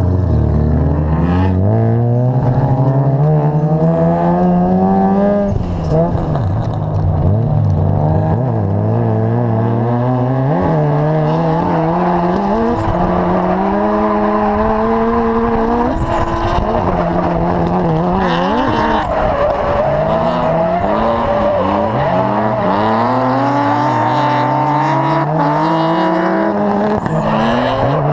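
Drift car engine revving hard, its pitch climbing and dropping back again and again as the driver works the throttle through a drift, with tyres squealing.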